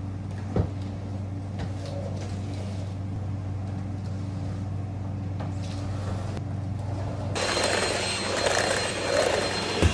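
A household appliance hums steadily, with a sharp click about half a second in. Near the end a louder motor with a high whine starts up and keeps running.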